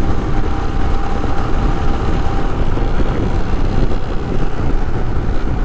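Wind rushing over the helmet microphone on a moving Royal Enfield Himalayan 411cc motorcycle, with the bike's engine and road noise underneath, steady throughout.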